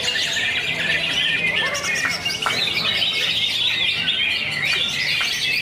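Cucak hijau (greater green leafbird) singing a fast, unbroken stream of chirping, twittering phrases, with a faint low hum underneath.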